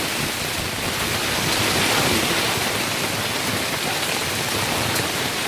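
Storm rain falling heavily in a steady, unbroken hiss.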